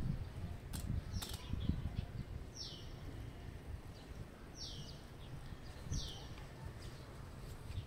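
A bird calling: a short, high, falling whistle repeated about every one to two seconds, over a low rumble.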